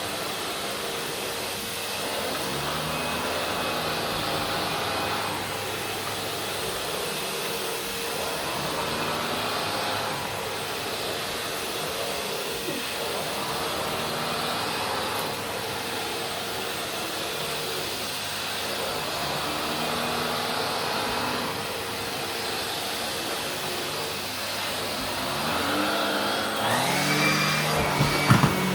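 Vacuum cleaner running and being pushed back and forth over carpet, its sound swelling and easing about every four seconds with each stroke. Near the end the motor note rises in pitch and the sound grows louder.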